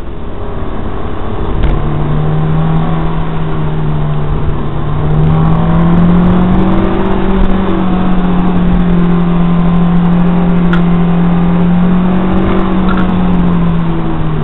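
Honda S2000's 2.0-litre four-cylinder engine running hard under load, heard from inside the cabin over road and wind noise. Its pitch rises a few seconds in, holds steady, and falls away near the end.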